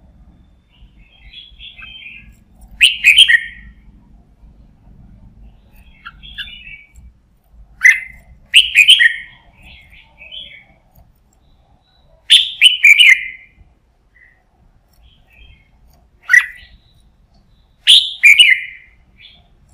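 Red-whiskered bulbul singing: short, loud, chirpy phrases every few seconds, with softer twittering between them.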